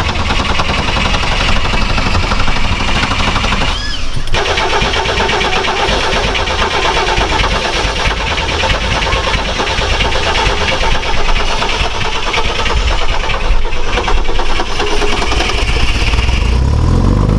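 Off-road vehicle's engine running hard and steadily, with a brief break about four seconds in.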